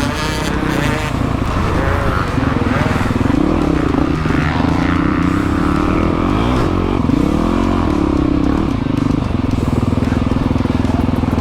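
Dirt bike engine running, its pitch rising and falling as the throttle is worked.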